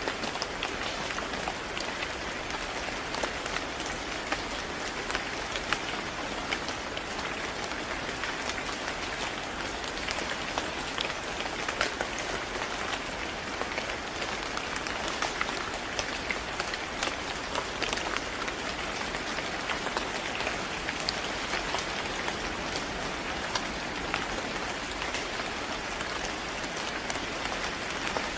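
Steady rain falling on a hard surface, an even hiss with many separate drops ticking sharply through it.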